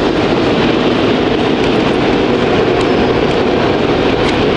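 Automatic car wash machinery heard from inside the car's cabin: a loud, steady rushing of water spray or air blowers against the car.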